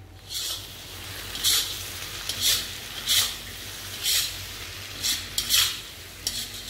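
Chicken and vegetables stir-frying in a wok: a steady sizzle, with a slotted spatula scraping and turning the food about once a second.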